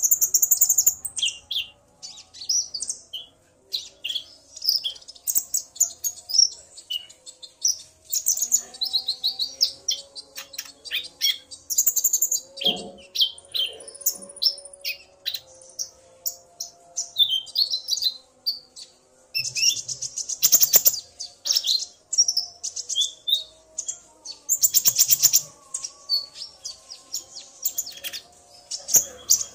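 Male and female konin (kolibri ninja) sunbirds calling back and forth in a long run of rapid, high, thin chirps and short trills. The male sings excitedly, set off by the female's calls.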